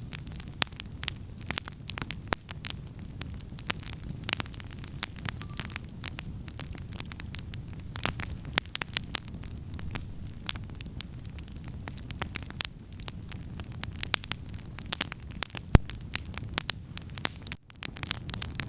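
Wood campfire crackling, with frequent sharp pops of burning wood over a low steady rumble. One louder pop comes about 16 seconds in.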